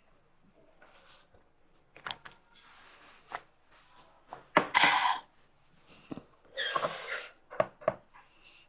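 Close-miked eating sounds: chewing and mouth clicks, with two louder half-second breathy slurps, one about halfway through and one about two-thirds in.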